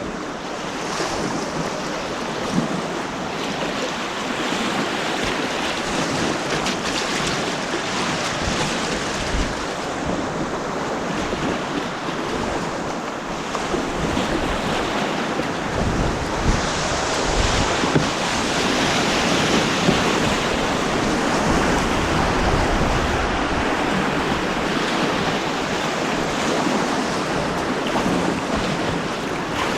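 Rushing white water on a man-made slalom course: a steady, loud churning hiss, with bouts of low buffeting on the action camera's microphone around the middle.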